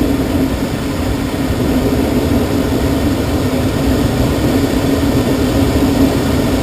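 Steady airflow noise in a glider cockpit, with a constant low hum.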